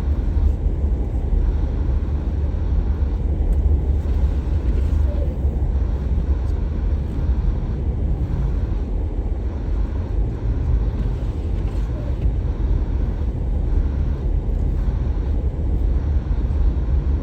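Steady low rumble of a car being driven: engine and tyres on the road, with no sudden changes.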